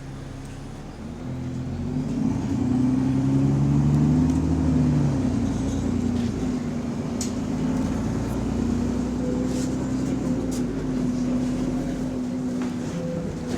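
Diesel bus engine pulling away from a stop: the revs climb for a few seconds, then it holds a steady pull with a deep exhaust note. The bus has an exhaust leak.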